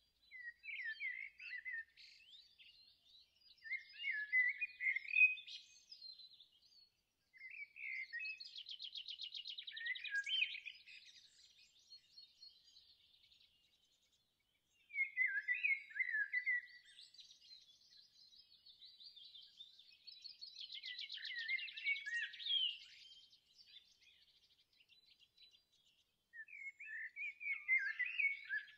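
Songbirds singing: bursts of varied chirps and warbles separated by short pauses, two of the phrases holding a long rapid trill.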